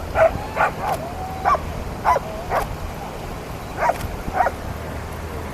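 A dog barking in short, high yips, about eight of them, in two bunches with a pause between. A steady low rumble runs underneath.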